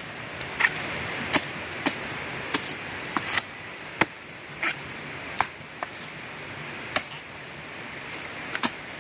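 Parang chopping into a felled palm: about a dozen sharp blade strikes, irregularly spaced, roughly one every half second to a second.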